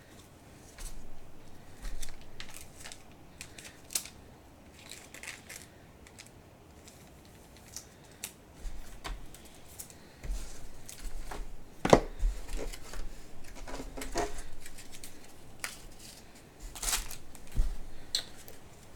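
Trading cards and their packaging being handled: scattered light clicks, rustles and snaps, with one sharper snap about two-thirds of the way through.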